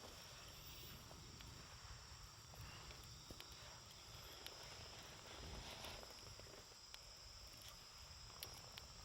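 Wood campfire crackling faintly with scattered small pops, over a steady high drone of insects.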